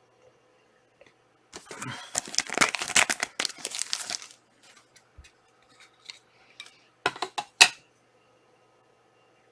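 Foil trading-card pack wrapper being torn open and crinkled for about three seconds, then a few sharp taps a few seconds later.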